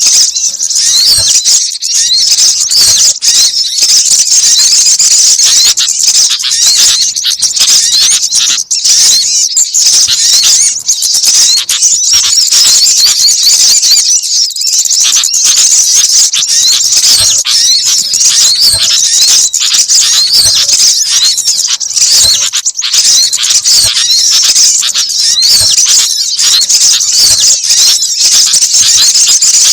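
A bird-lure recording mixing the calls of several small birds (sogon, gelatik, sunbird and sooty-headed bulbul): dense, overlapping, high-pitched chirping and twittering without a break.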